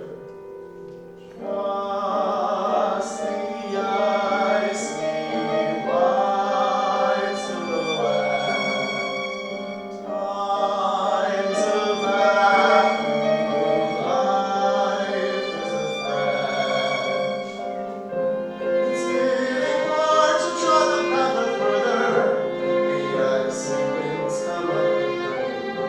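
Voices singing in harmony with long held notes over instrumental accompaniment. The music swells in about a second in after a brief quieter moment.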